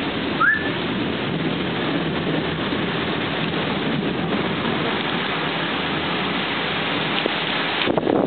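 Rain falling steadily during a thunderstorm, a constant rushing hiss. A short rising chirp sounds about half a second in.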